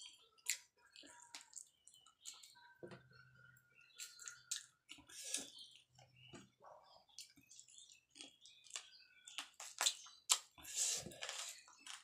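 Close-miked mouth sounds of a person eating grilled chicken and rice by hand: wet chewing, lip smacks and clicks coming irregularly.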